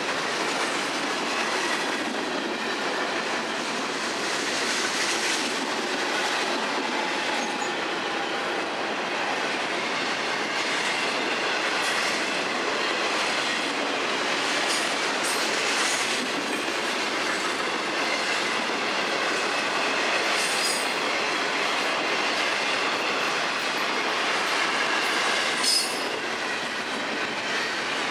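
Freight train cars, boxcars and then double-stack container cars, rolling past with a steady rush of steel wheels on rail and clickety-clack. A few brief high wheel squeals cut through, the loudest near the end.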